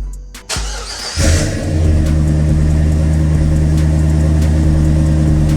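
Car engine cranked briefly and catching about a second in, flaring up then settling into a steady idle. No belt squeal is heard. The owner is chasing a squeak from the belt or a pulley that shows when accelerating.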